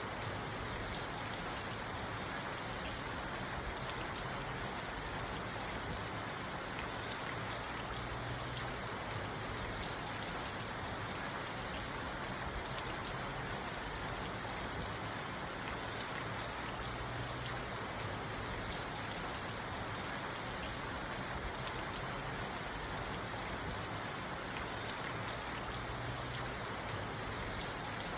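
Steady rain drumming on a parked car's roof and windows, heard from inside the car.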